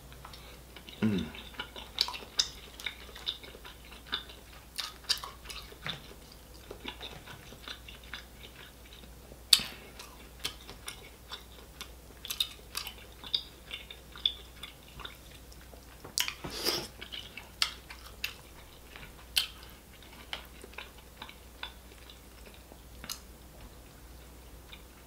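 Close-miked mouth sounds of a person eating seafood boil: scattered wet chewing, lip smacks and clicks, with a few louder smacks standing out.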